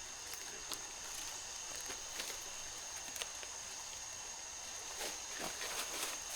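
Forest ambience: a steady high-pitched insect drone with scattered rustles and snaps in the undergrowth, which become more frequent near the end.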